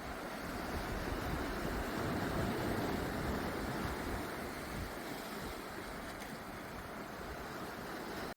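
Sea waves washing onto a beach: a steady rush of surf that swells to its loudest about two to three seconds in, then eases.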